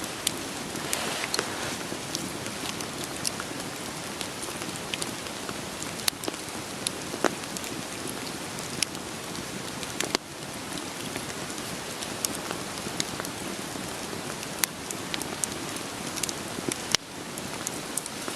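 Steady rain on a surface, a continuous hiss, mixed with irregular sharp crackles and pops of burning firewood in a campfire.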